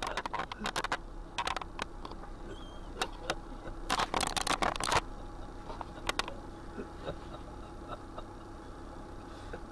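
Bursts of close clicking and rustling, one in the first second and a denser one about four seconds in, over a steady low hum.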